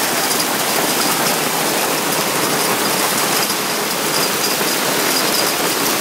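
Hail and heavy rain pelting down, a steady dense patter with many small sharp clicks.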